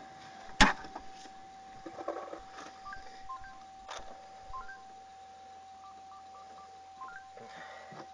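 Short electronic beeps at a few different pitches, in small groups, over a faint steady tone, with one sharp click about half a second in.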